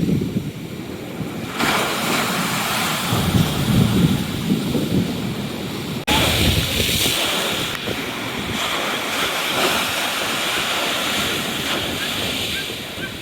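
Rough sea waves breaking and surging against the seafront, with strong wind buffeting the microphone. There is a sudden brief break about six seconds in, after which the hiss of the surf grows brighter.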